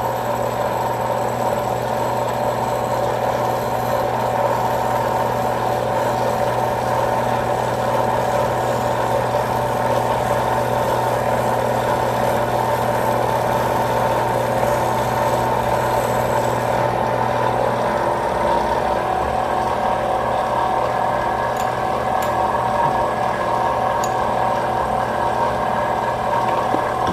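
Valve refacing machine's grinding wheel running steadily while a diamond dresser is fed slowly across it to true the wheel. A high whine and part of the low hum drop out about two-thirds of the way in.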